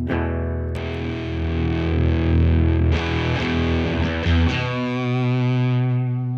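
Electric guitar played through the Torns Peaker side of a Devi Ever BDSM fuzz pedal into a valve amp: heavily fuzzed chords, ending on one long held chord that rings out through its second half.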